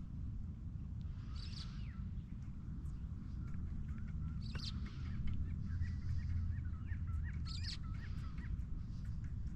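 Birds calling: one call recurring about every three seconds and a run of quick twittering notes in the middle, over a steady low rumble.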